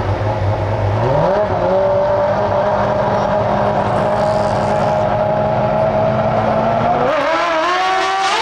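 Drag-racing motorcycle engine revving up, holding one steady high pitch for several seconds, then climbing in quick steps near the end as it accelerates.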